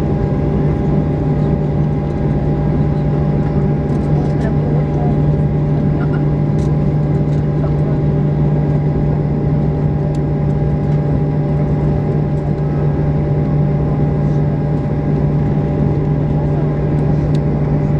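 Steady drone inside a Boeing 737-800 cabin on the ground: a constant low hum with fainter, higher steady whines, and a few faint clicks.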